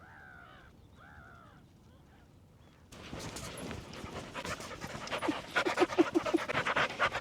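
A few faint bird calls, then about three seconds in, a dog panting rapidly and loudly close by.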